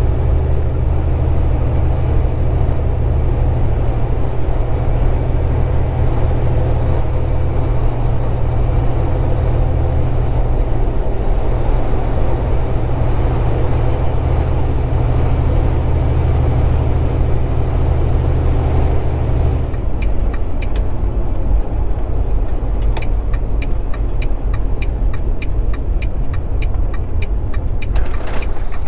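Volvo 780 semi truck's diesel engine running steadily, heard inside the cab at highway speed. About twenty seconds in the engine note drops off and a regular clicking begins, about two clicks a second.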